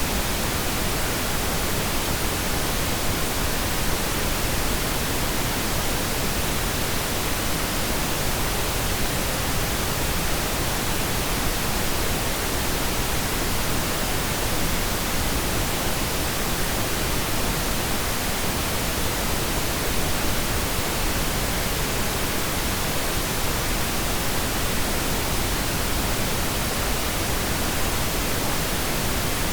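Steady pink noise, an even, unchanging hiss across all pitches with no breaks or events.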